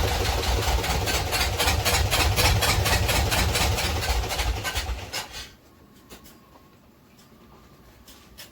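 Sailboat's inboard engine running with a fast, even clatter on one of its first runs after the engine work, then shut off about five seconds in.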